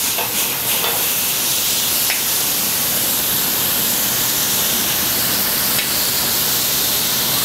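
Beef, onion and tomato sizzling hard in a sauté pan over a high gas flame as they are stir-fried: a steady hiss, with a few light clicks of the spatula against the pan.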